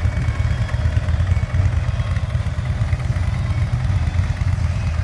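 Harley-Davidson Ultra Limited's V-twin engine idling steadily with a low, pulsing rumble.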